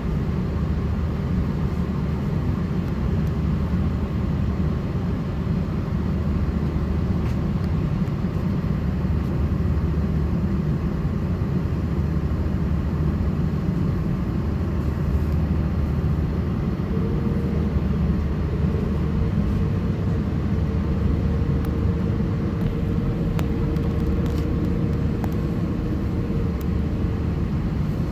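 Steady low rumble inside the cabin of an Airbus A330-900neo with its Rolls-Royce Trent 7000 engines at low power as it taxis, with no spool-up for takeoff yet. A faint steady hum joins about two-thirds of the way through.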